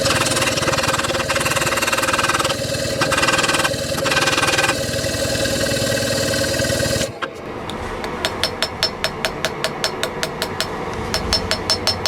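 A loud, steady machine noise with a fast pulse stops abruptly about seven seconds in. It gives way to a hammer forging steel, sharp ringing blows at about four a second.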